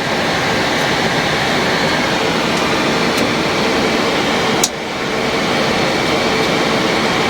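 Steady rushing of a Boeing 737 cockpit's air-conditioning airflow and equipment fans, with faint steady hums. A single sharp click comes about four and a half seconds in.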